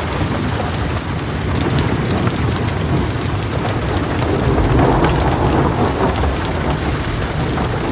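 Heavy rain falling on a metal roof, individual drops ticking through the steady wash, with a low rumble of thunder swelling about halfway through.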